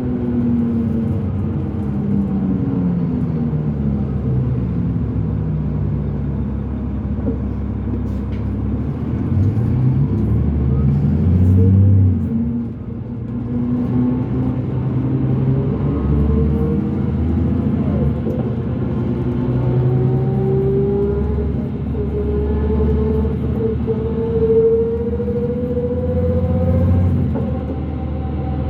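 Inside a 2005 New Flyer D40LF transit bus under way: the Cummins ISL diesel engine and ZF six-speed automatic pull hard, the engine pitch falling and rising with gear changes and speed. A whining tone rises with road speed, the weird axle noise. About twelve seconds in, the engine drops off briefly, then pulls again.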